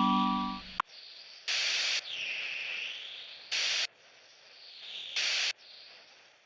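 A held electric-keyboard chord that cuts off with a click under a second in. Then the track ends on static-like hiss: short, sharp-edged bursts about every two seconds, with softer noise swelling and fading between them.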